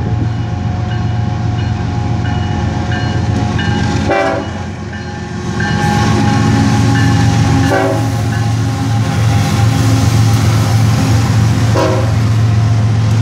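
BNSF ES44AC diesel-electric locomotive, a GE GEVO V12, leading a freight train. Its horn sounds as it approaches, then the engine rumble and wheel noise swell loudest as the lead locomotives pass, about six seconds in.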